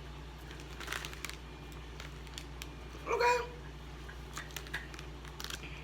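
Faint crunching and chewing of small cheese puffs, heard as scattered soft clicks over a steady low hum.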